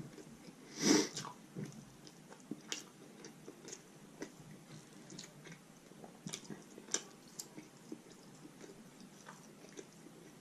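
A person chewing and biting food close to the microphone: scattered wet mouth clicks and smacks, with one louder burst about a second in.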